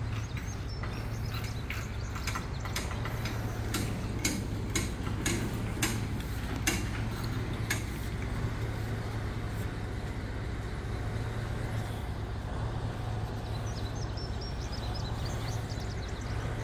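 Vehicle engine idling steadily with a low hum, with scattered sharp ticks through the first half.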